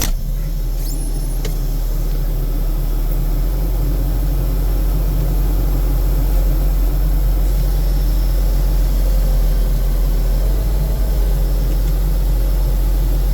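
Diesel engine of a 2022 Case SV280B skid steer running steadily, a low continuous drone that builds slightly over the stretch, with a couple of faint clicks about a second in.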